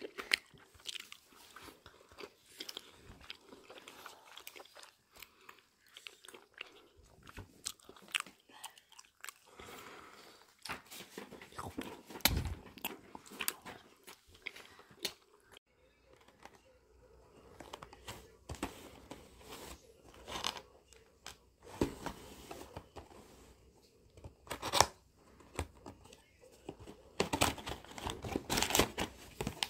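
Close-miked chewing and biting of sticky rice cakes, with irregular soft clicks and mouth noises and an occasional louder knock. Near the end, a paper gift box's lid is lifted and the box is handled, with a short run of rustles and clicks.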